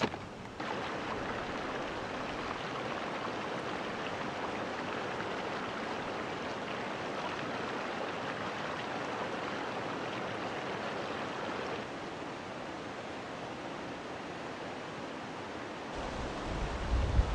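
Mountain stream rushing over rocks: a steady wash of running water. Near the end, a low rumble of wind on the microphone joins in.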